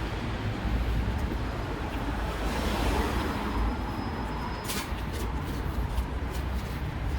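Steady low rumble and noise, like vehicle or traffic noise, with a few faint ticks.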